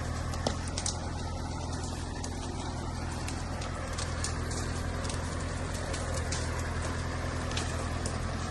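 Small Japanese tractor's engine running steadily with an even low hum, with scattered sharp clicks and knocks over it.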